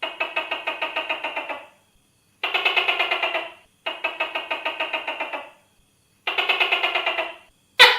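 Tokay gecko calling: four rattling trills, each a rapid run of about eight pulses a second lasting one to two seconds, then a sharp falling call that starts right at the end.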